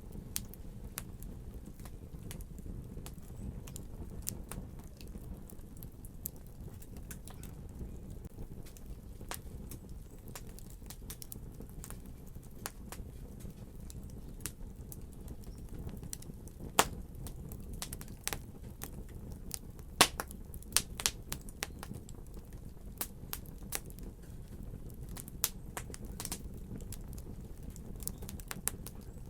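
Wood fire crackling: a steady low rumble under scattered sharp pops and snaps, which come thicker from about halfway through, with the two loudest pops a few seconds apart.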